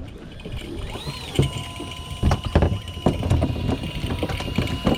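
Electric fishing reel motor whining steadily as it winds in line, starting up about a second in, with irregular knocks and thumps throughout.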